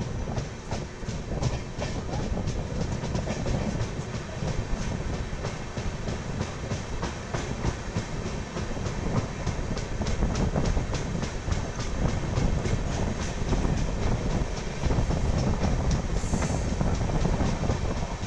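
Kovai Express passenger coach running along the rails, heard at the coach window: a steady rumble of wheels with a regular clickety-clack over the rail joints, getting a little louder toward the end.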